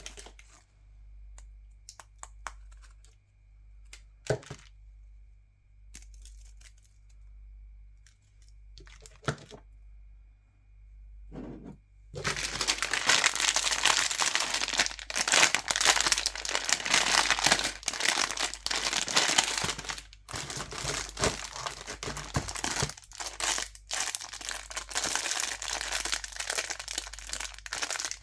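Plastic candy wrappers crinkling and being unwrapped close to the microphone: scattered soft crackles for the first twelve seconds or so, then dense, continuous crinkling.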